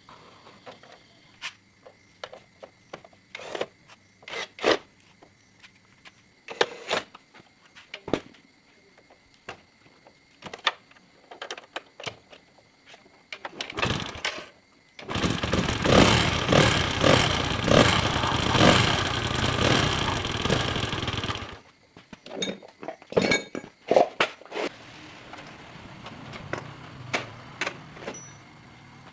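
A motor runs loudly for about six seconds, starting about fifteen seconds in and cutting off suddenly. Before and after it come scattered knocks and clinks of metal tools and parts being handled.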